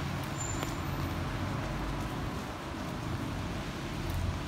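Steady rain falling on wet pavement, a continuous hiss with a low rumble beneath it.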